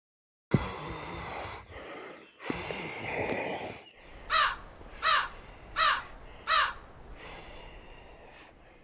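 A bird calling four times, about three quarters of a second apart, each call a loud, harsh note falling in pitch. Before the calls there is a sharp knock about half a second in and a few seconds of rustling outdoor noise.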